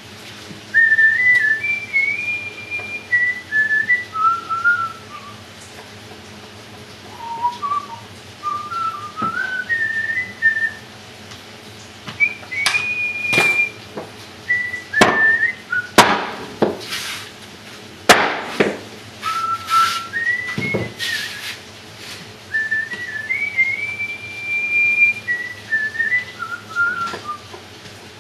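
A person whistling a tune in short stepping phrases, with a pause near the quarter mark. Several sharp knocks come in the middle, some as loud as the whistling.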